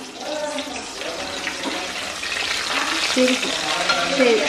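Spices and vegetables sizzling as they fry in oil in an iron kadai, stirred with a wooden spoon. The sizzle grows louder as it goes.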